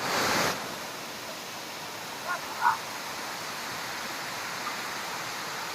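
Waterfall rushing in a steady, even hiss, after a louder burst of noise in the first half second. Two short high calls from an animal or a distant voice stand out a little over two seconds in.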